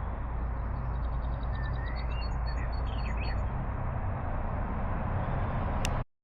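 A bird chirping in a few short rising calls and a quick series of ticks, over a steady low rumble that cuts off abruptly near the end.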